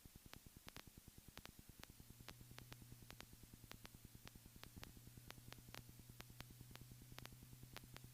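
Near silence: only a faint, rapid, regular ticking and a faint low steady hum that comes in about two seconds in.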